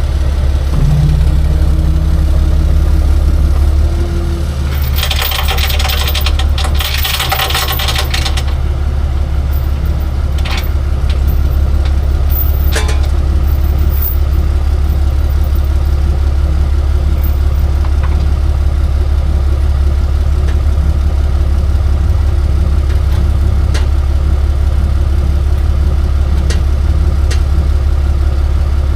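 Tow truck engine idling steadily. About five seconds in comes a few seconds of metallic rattling and clanking, followed by a few separate sharp clanks.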